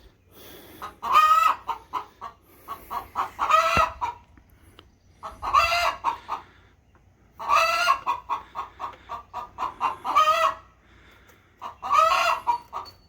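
A hen cackling loudly: about six phrases, each a quick run of clucks ending in a drawn-out squawk, coming roughly every two seconds. It is the typical egg-laying announcement, though the keeper is unsure whether she has just laid or is protesting at being kept out of the nest box.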